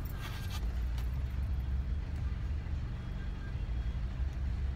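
Car engine idling steadily, a low hum heard from inside the cabin. There is a brief rustle in the first half-second.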